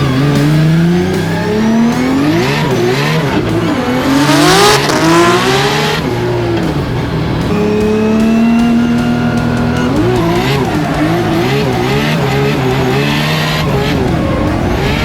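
Nissan Skyline R32 drift car's billet RB28 straight-six revving hard, the pitch climbing, dropping and swinging up and down with the throttle while drifting, with a short steadier hold about halfway. Tyres squeal loudly about four to five seconds in.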